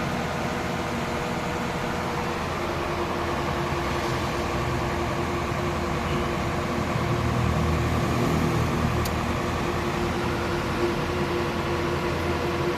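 Mitsubishi Fuso truck's diesel engine running steadily at a raised idle, its throttle wedged open to charge the battery. The low rumble swells briefly about seven seconds in.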